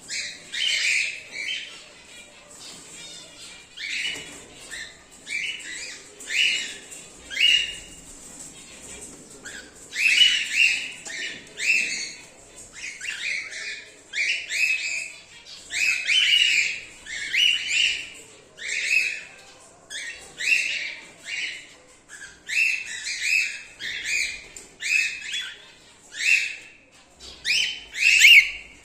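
Cockatiels calling: a long series of short, shrill calls, one or two a second, in runs with brief pauses between them.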